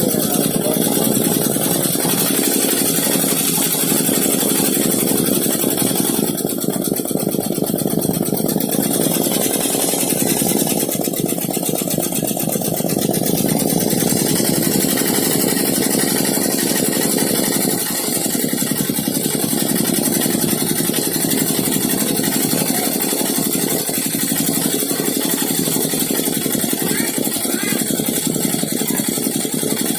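HSW 12-needle high-speed embroidery machine running and stitching steadily, with a rapid, even rhythm of needle strokes.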